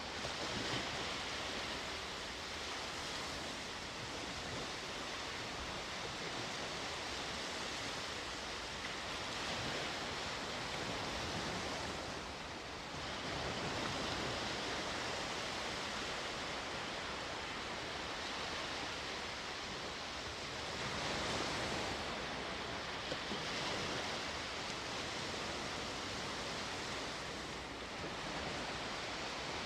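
Sea waves breaking and washing on the shore: a steady surf hiss that swells every several seconds as each wave comes in.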